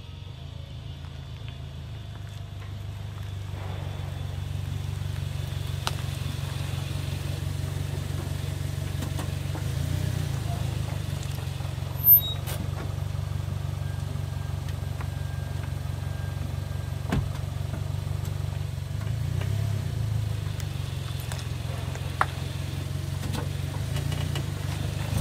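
Toyota SUV's engine running with a low, steady hum as the car creeps slowly forward, with one sharp click about halfway through.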